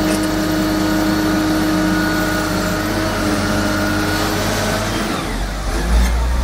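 An engine running steadily, its note changing about five seconds in.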